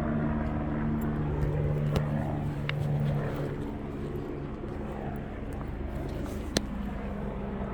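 Helicopter flying overhead, a steady drone with a low hum that fades about halfway through. Two sharp clicks, the louder near the end.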